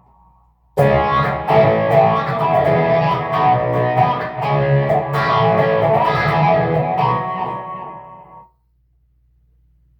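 PRS SE Hollowbody II electric guitar played through a Peavey Vypyr X2 with its overdrive effect on: chords and picked notes start about a second in and stop abruptly near the end, leaving a low hum.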